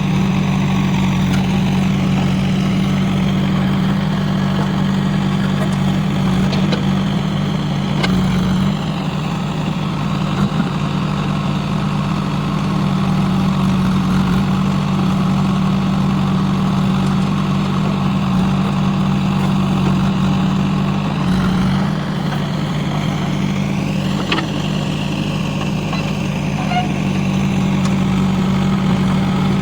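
Heavy diesel engine running steadily, with a faint whine that rises and falls twice.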